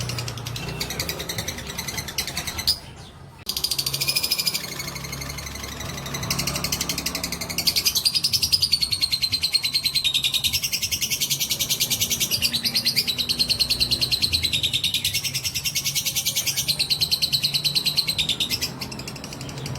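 A lovebird singing a long, rapid, high-pitched chattering trill, the 'ngekek' kept up by lovebird fighters. It breaks off briefly about three seconds in, then comes back louder and keeps going almost without a pause.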